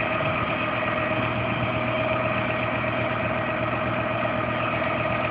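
A car engine idling steadily with a steady whine over it, in a car whose engine has overheated and been smoking.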